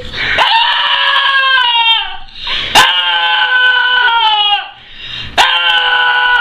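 A dog howling: three long, steady howls, each sliding down in pitch as it ends.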